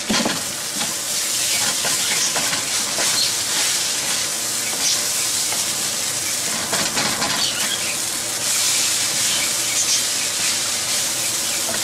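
Chicken fried rice frying in a hot oiled pan while being stirred, the scrambled egg just added for the final stage. A steady sizzle runs throughout, with scattered short scrapes and clicks of the stirring utensil against the pan.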